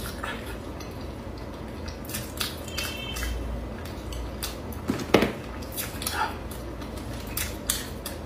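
Close-miked eating sounds: chewing a mouthful of braised food, with scattered short mouth and chopstick clicks and one sharper click about five seconds in.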